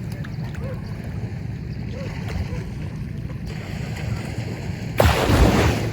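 Steady low rumble of wind on the microphone, with a loud rush of noise about five seconds in that lasts about a second.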